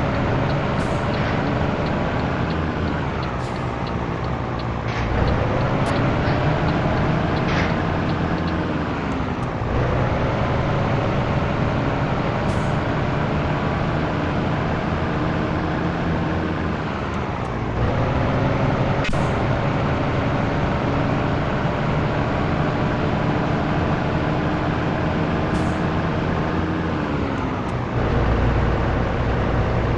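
Scania T113 truck's six-cylinder diesel engine pulling under load, climbing steadily in pitch through each gear and dropping sharply at each upshift, about four shifts in all.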